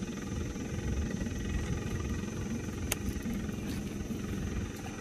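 Boat engine running steadily as a low rumble, with one sharp click about three seconds in.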